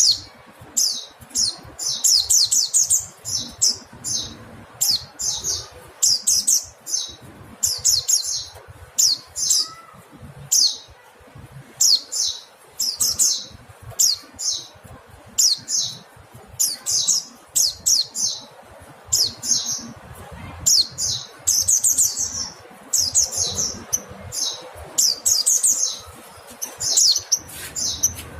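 Mountain white-eye (pleci montanus) calling: short bursts of quick, high, sharp chirps, repeated one or two bursts a second without pause.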